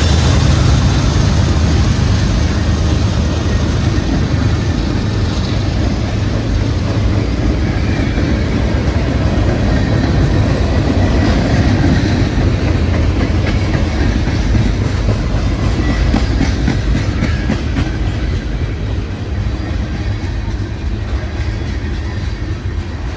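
A train rolling past close by: a heavy steady rumble of cars going by, with wheels clacking over rail joints in the second half, slowly growing quieter toward the end.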